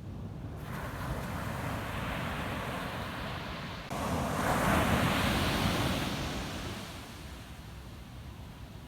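Ocean waves breaking and washing up a sand beach. The surf rises sharply about four seconds in, swells to its loudest, then fades away, over a steady low rumble of wind on the microphone.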